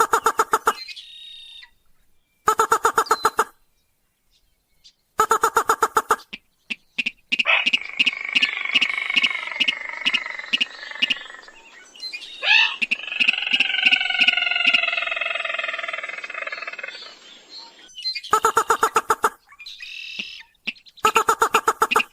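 Recorded lure calls of rice-field rails (sintar): short bursts of rapid clicking calls repeating every few seconds, with a longer, harsh call of several wavering tones running about ten seconds through the middle.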